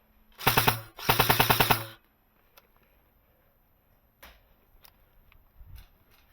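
An airsoft gun firing two quick full-auto bursts close by, the second a little longer than the first, followed by a few faint clicks and knocks.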